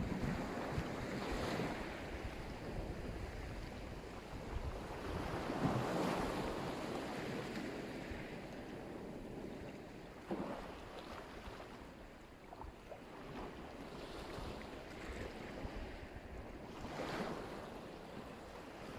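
Black Sea surf: waves break and wash up the shore, swelling every few seconds, with wind rumbling on the microphone.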